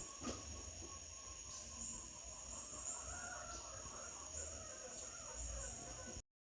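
Insects trilling in a steady high-pitched chorus, cutting off suddenly near the end.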